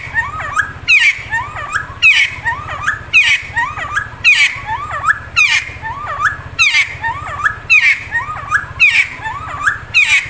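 Cucak timor, the Timor friarbird, singing loud repeated phrases about once a second. Each phrase is a sharp, falling whistle followed by a few hooked lower notes, over a low steady buzz.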